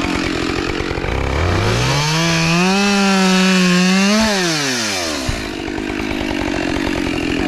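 Two-stroke gas chainsaw idling with a rough, pulsing beat. About a second in it is throttled up into a steady high whine for about three seconds, then drops back down to idle.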